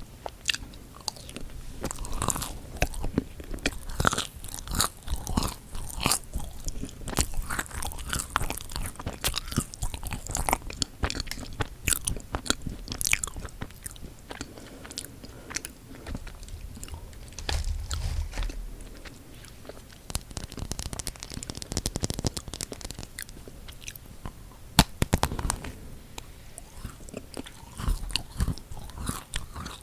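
Close-miked eating of chocolate-coated marshmallow cookies: crackling bites through the chocolate shell and chewing with mouth sounds. It is quieter for a few seconds past the middle, then the crackle picks up again.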